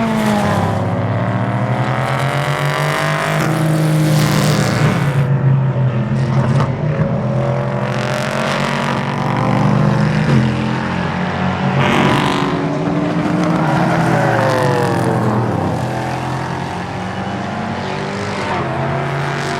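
Several racing cars at full speed, their engines revving up through the gears and dropping on the shifts as they pass one after another.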